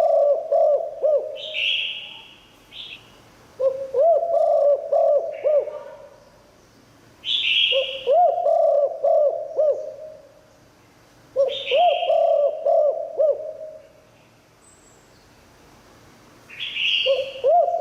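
Spotted dove cooing its multi-note call, a phrase of several low coos repeated about every four seconds. Each phrase opens with a short higher note.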